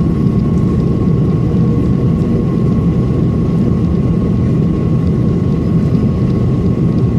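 Steady airliner cabin noise inside an Airbus A330-300: a constant low rumble of engines and airflow, with a thin steady whine above it.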